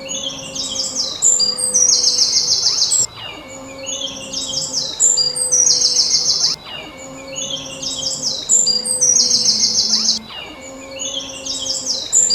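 Songbird singing: a phrase of high chirps ending in a fast trill, repeated identically about every three and a half seconds like a looped recording.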